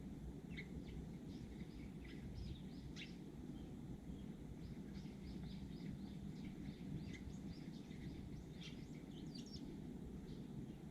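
Eurasian tree sparrows chirping, many short, quick calls throughout, over a steady low background rumble.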